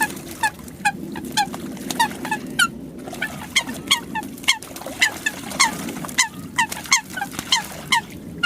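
Water hens calling: a steady series of short, clipped honking calls, each falling slightly in pitch, about two a second, over a steady low hum.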